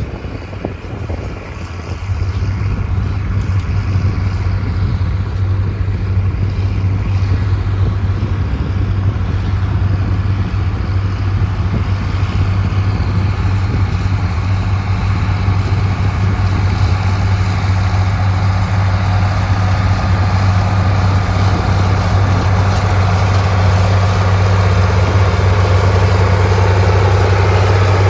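Farm tractor's diesel engine running at a steady speed, its low hum swelling louder about two seconds in and then holding even.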